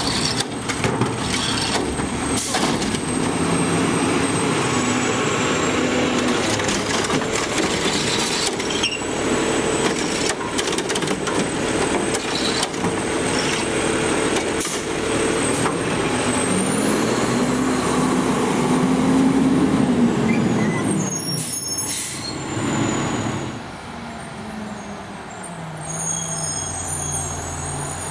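Garbage truck's diesel engine running with its hydraulics working; past the middle the engine revs up for a few seconds and drops back. A short burst of air-brake hiss follows, and the truck then runs quieter.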